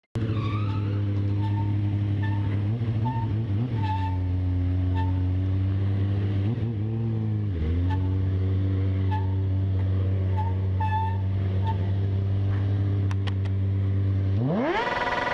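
A vehicle engine idles steadily, dips briefly about halfway through and picks up again, then revs up sharply with a fast rising pitch near the end.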